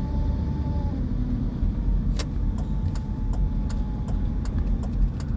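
Car driving along: a steady low rumble of engine and road noise, with light clicks and rattles from about two seconds in.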